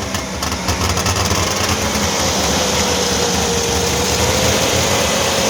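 1958 DKW pickup's three-cylinder two-stroke engine running steadily just after starting, with a buzzy, rattly two-stroke note that sounds like an old 650 Polaris snowmobile.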